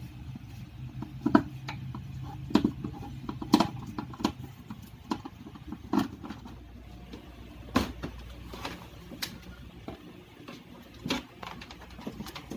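Scattered sharp clicks and knocks, a dozen or more at uneven intervals, of hand tools and the plastic casing of an LED TV being worked as the set is opened up.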